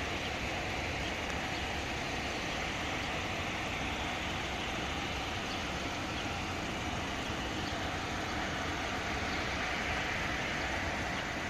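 Airbus A380 jet engines (four Rolls-Royce Trent 970 turbofans): a steady rushing jet noise that swells slightly near the end.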